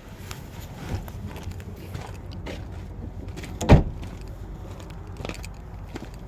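A low steady rumble with scattered faint clicks and one sharp knock a little under four seconds in, the loudest sound here.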